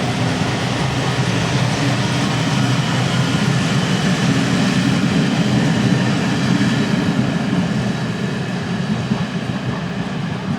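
A train running on the track, with a steady rumble of wheels and rails that swells to its loudest about halfway through and then eases slightly.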